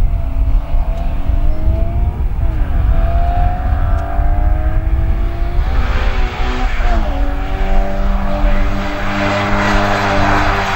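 Austin-Healey Sprite's four-cylinder engine accelerating hard up a hillclimb. The revs rise, drop back twice at up-changes and hold high near the end.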